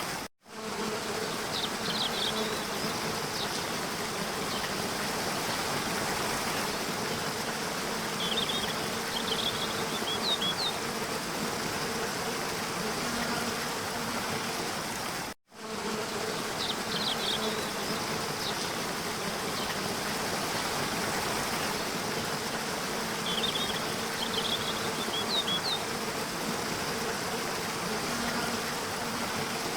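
Steady rush of falling water with a faint low hum under it and short, high bird chirps a few times. The sound drops out for a moment twice, where a short recording loops.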